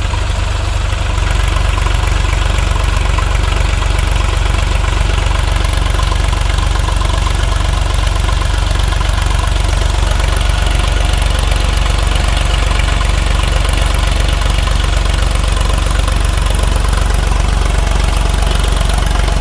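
Sonalika 745 tractor's diesel engine running steadily at an even pace, loud and low.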